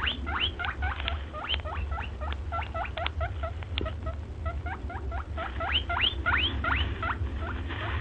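A small animal giving a rapid string of high, squeaky chirps, many sweeping upward in pitch, several each second, over a steady low hum.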